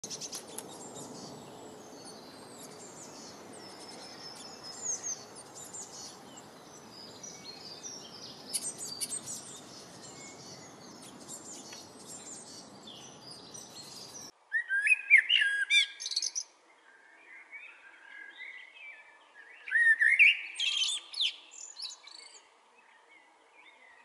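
Many small, high bird chirps over a faint background hiss. About 14 seconds in, this gives way to a male common blackbird singing loud, fluting phrases, two main phrases with quiet pauses between them.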